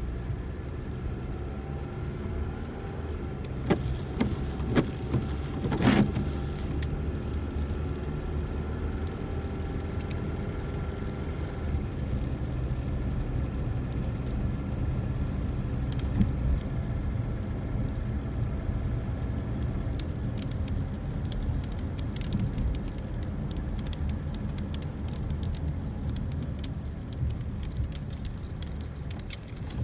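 Car cabin noise while driving: a steady low engine and road rumble, with scattered small clicks and rattles and a few louder knocks about four to six seconds in.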